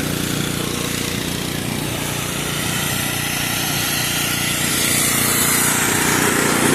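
Pressure washer running steadily, its engine droning under the hiss of the water spray, which swells a little about five seconds in.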